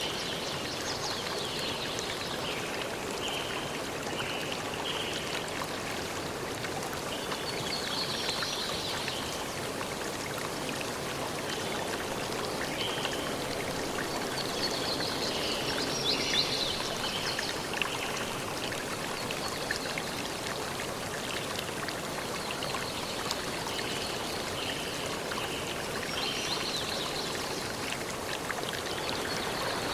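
A forest stream running steadily, with birds singing on and off above the rush of water.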